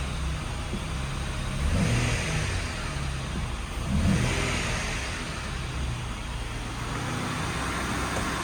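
2009 Dodge Charger's 2.7-litre V6 engine running at idle, revved briefly twice, about two seconds in and again about four seconds in.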